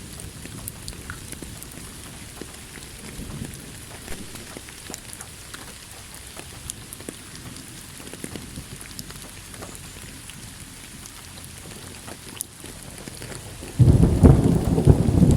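Steady rain falling, with scattered drop ticks, and a loud rumble of thunder breaking out suddenly near the end.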